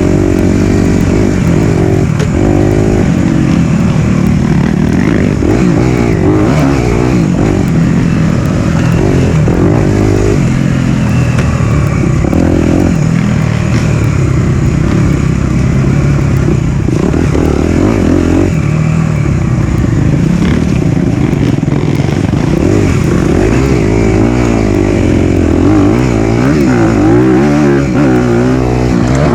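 Four-stroke dirt bike engine running hard under load, its revs rising and falling again and again as the throttle is worked.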